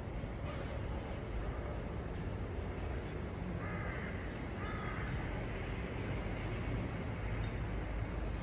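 A bird calling twice, about three and a half seconds in and again a second later, over a steady low rumble of background noise.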